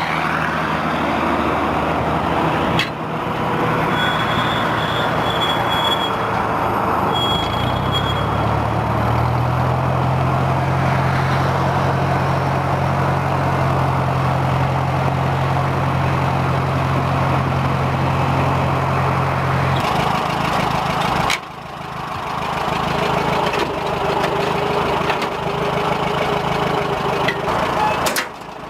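John Deere 2010 tractor engine running: it idles, is revved up about a third of the way through and held at the higher speed for around ten seconds, then drops back to idle. The sound breaks off abruptly a few times.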